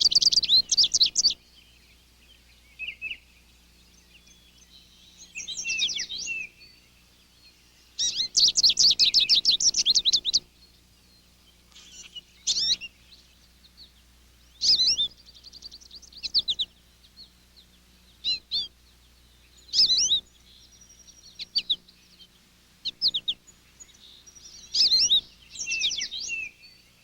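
Songbirds singing: fast trilled song phrases of a couple of seconds, one at the start and one about eight seconds in, with shorter high chirps and warbles between them.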